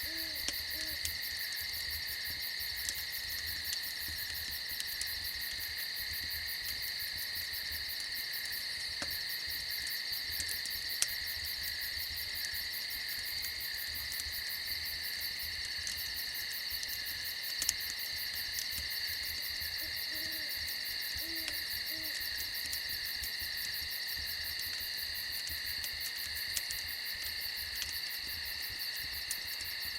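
A steady chorus of crickets and other night insects trilling, with an owl hooting a few short low hoots right at the start and again about twenty seconds in. A few sharp pops from a crackling fire come through now and then.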